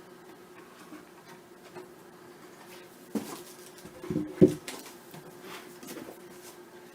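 Wooden beehive kit parts knocking as they are handled and set down during unpacking: a knock about three seconds in and a cluster of knocks just after four seconds, the last the loudest, over a faint steady hum.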